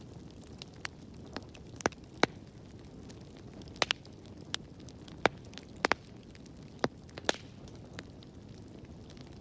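Wood fire burning in a fireplace: a steady low rumble of flames with sharp, irregular crackles and pops, a dozen or so, the loudest about two, five and six seconds in.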